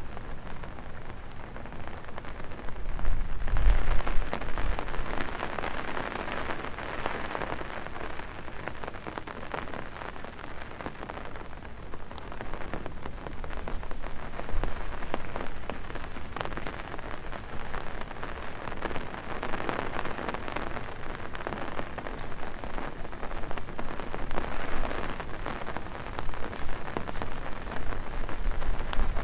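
Heavy rain drumming on an umbrella overhead: a dense, steady patter of many small drop ticks. A gust swells it louder, with a low rumble, about three seconds in.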